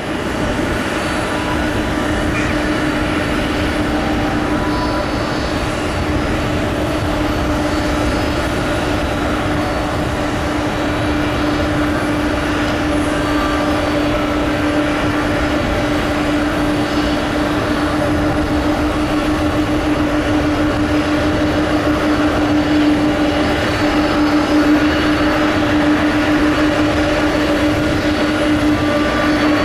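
KC-46A tanker's twin turbofan jet engines running steadily at taxi power, with a constant low hum over the engine rush; it grows slightly louder in the second half.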